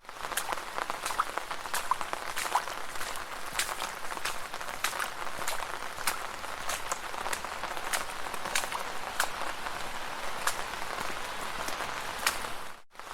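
Footsteps splashing through shallow puddles at a walking pace, a wet slap about every half second over a steady watery hiss. The sound drops out briefly near the end.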